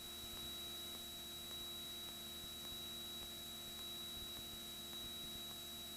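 Faint steady electrical hum and hiss with a thin high-pitched whine: the background of a light aircraft's intercom audio feed between radio calls and conversation.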